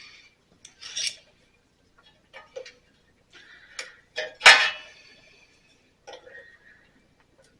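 Small metallic clicks and clinks of pliers working against the engine's ignition coil to pry off the coil's kill (ground) wire, with one sharper metal clank about four and a half seconds in that rings briefly.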